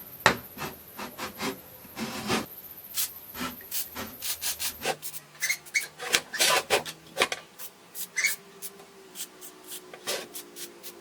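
Irregular clicks, knocks and scraping of workshop hand work on the old circular saw's parts, a few sharp taps a second with no steady machine running.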